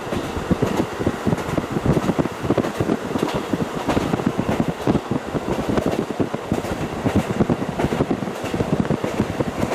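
KiHa 40 diesel railcar running along the line, heard through a fully open window: a steady rush of wind buffeting with the rumble of wheels on rail underneath.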